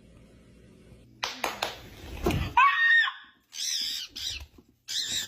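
A pet parrot squawking: several loud calls that bend in pitch, some of them shrill, starting about two seconds in, after a few knocks and rustles.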